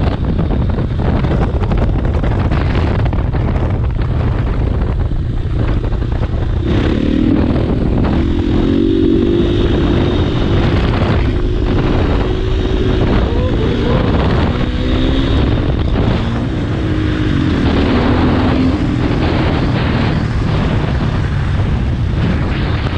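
Dirt bike engine running under throttle with heavy wind rush on the microphone. From about seven seconds in a higher engine note rises and falls as the throttle is worked.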